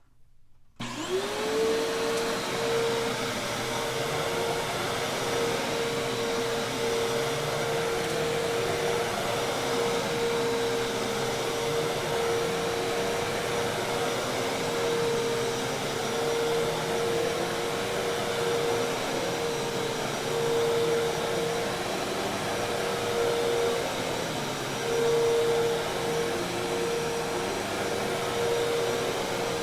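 Hoover Task Vac commercial vacuum cleaner switched on about a second in: its motor spins up with a quickly rising whine, then runs steadily with a constant whine over a rush of air.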